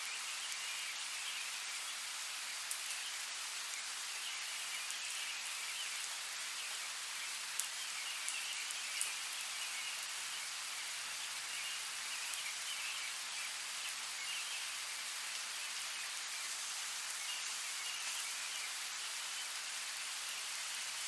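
Steady rain falling, an even hiss with scattered sharp drop ticks, a few of them louder, about halfway through.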